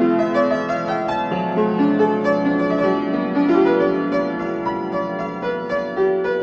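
Instrumental music: a piano or keyboard playing sustained chords and a melody, without singing.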